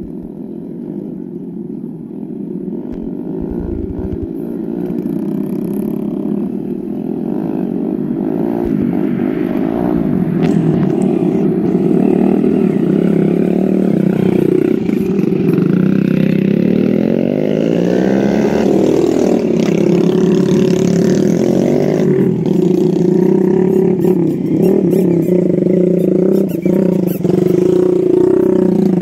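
Motorbike engine running, growing louder over the first dozen seconds, its pitch rising and falling repeatedly as it speeds up and slows down.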